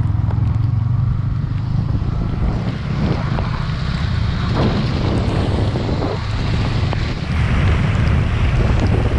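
Wind rushing over the microphone of a moving motorcycle, with a steady engine hum underneath. About seven seconds in, a hiss grows louder.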